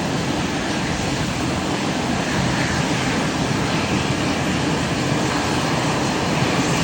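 Boeing 777-200's Rolls-Royce Trent 800 turbofan engines running at high power, a steady loud jet rush that grows a little louder partway through.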